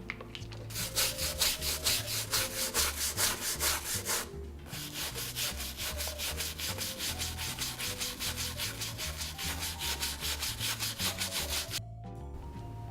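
Shoe brush bristles scrubbing quickly back and forth over a leather boot, about six or seven strokes a second. The strokes pause briefly about four seconds in and stop shortly before the end.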